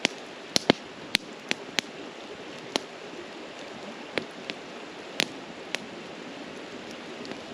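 Wood campfire crackling, with sharp pops at irregular intervals over the steady rush of a nearby stream.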